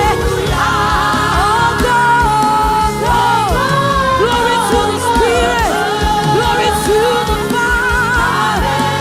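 Live gospel worship music: singing with long held and gliding notes over a band with a steady beat.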